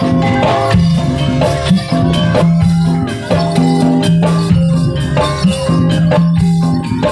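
Live jaranan music: a Javanese gamelan-style ensemble with drums and struck pitched percussion playing a dense, steady beat under held melody notes.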